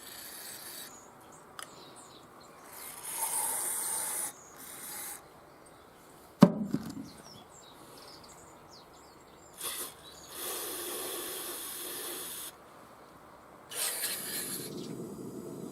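Several spells of rubbing or scraping, each lasting a second or two, and one sharp knock about six seconds in, the loudest sound.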